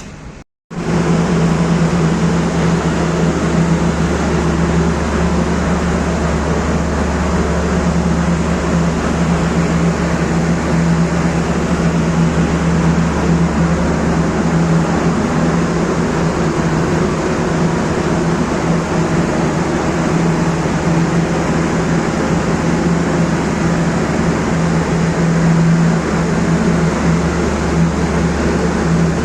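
A steady machine drone, a constant low hum under a broad even rushing noise, starting suddenly about half a second in and running unchanged.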